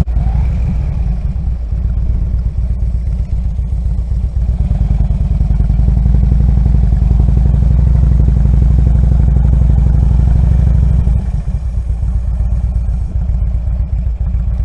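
Harley-Davidson Road King's V-twin engine running as the motorcycle rides along, a steady low pulsing. About eleven seconds in the engine sound drops in level and turns more uneven.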